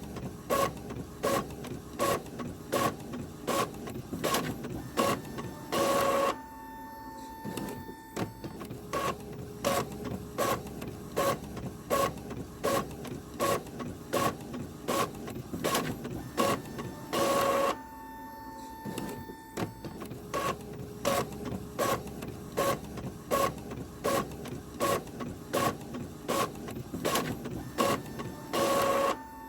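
Printer printing: sharp mechanical strokes about twice a second. About every eleven seconds comes a longer, louder burst, followed by a couple of seconds of quieter running with a steady hum.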